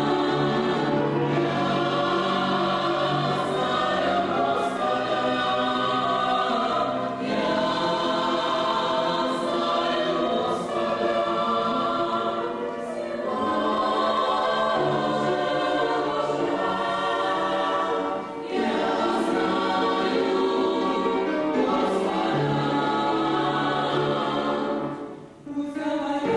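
A church vocal group singing a hymn together in several parts, holding long chords. There is a short break for breath near the end.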